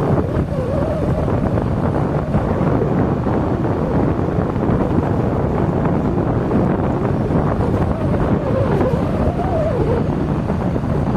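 Steady vehicle engine and road noise, with wind rushing over the microphone and a faint engine tone that rises and falls twice.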